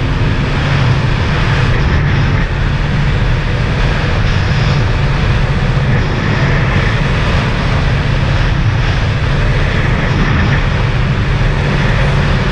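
Sea-Doo jet ski's supercharged three-cylinder engine running steadily at speed, with a constant rush of wind and water over it.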